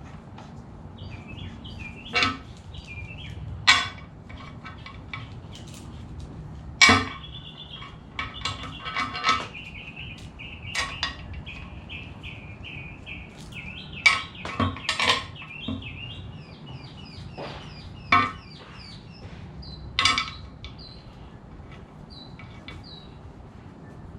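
Hand tools and bolts clinking against metal on an engine block in a series of sharp, irregular clinks, about eight loud ones. Short, high chirping notes repeat throughout.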